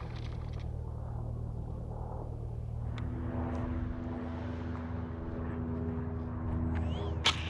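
Electric ducted fan of a Freewing T-33 Shooting Star 80mm EDF model jet running, joined about three seconds in by a steady pitched whine. A sharp click comes near the end.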